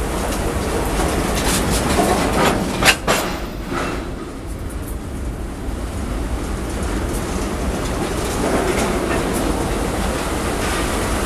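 Freight train of tank wagons rolling past at close range, a steady rumble with wheels clacking over the rail joints. A loud, sharp clank stands out just before three seconds in.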